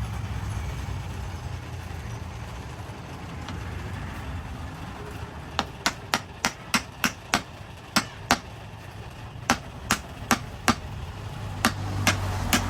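A series of sharp hammer blows, about two or three a second in irregular runs, starting about halfway through, over a steady low hum.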